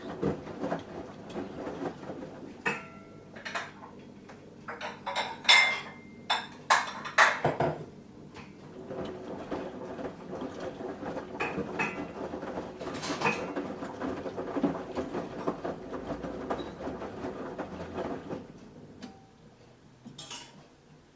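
Samsung Eco Bubble front-loading washing machine mid-wash: the drum tumbles the wet load with a steady swishing and a run of sharp clicks and knocks, then stops near the end.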